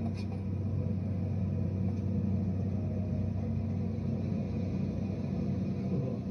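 Caterpillar D10 bulldozer's diesel engine running steadily, a low, even drone.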